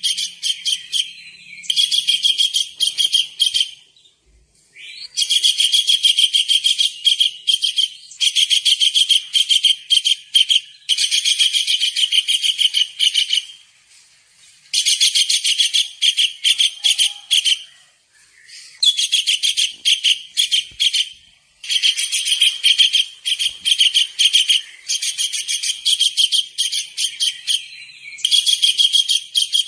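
Small kingfisher (tengkek udang) calling in rapid, high-pitched trilling phrases, each a second or two long, repeated over and over with short pauses between.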